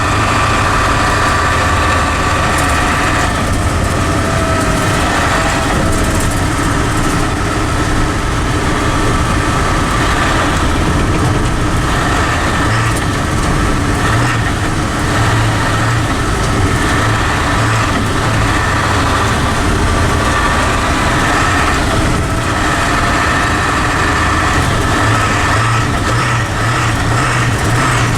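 A 7.3 L Powerstroke turbo diesel V8 running steadily while the Ford F600 truck is driven, heard from inside the cab.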